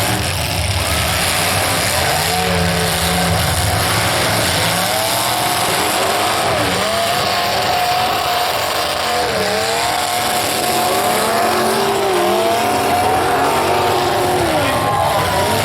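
Several demolition derby cars' engines revving up and down, their pitches rising and falling and overlapping, over a constant loud din.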